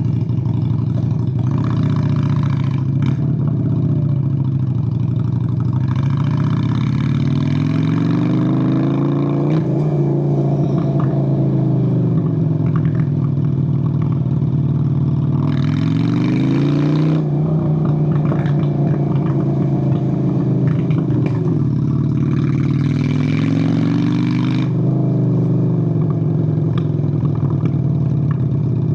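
Honda Steed VLX 600 V-twin motorcycle engine running under way. Its revs climb three times and drop back between climbs, as it accelerates and shifts. Brief rushes of noise come and go a few times.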